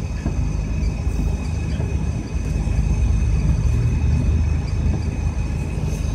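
Steady low rumble of an idling vehicle engine, heard from inside a car waiting in traffic.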